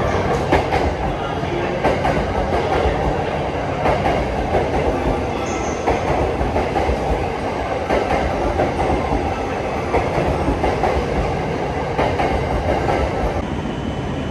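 Sunrise Seto sleeper train, a 285-series electric multiple unit, rolling into the platform and slowing to a stop, its wheels clacking over the rail joints every couple of seconds beneath a steady rumble.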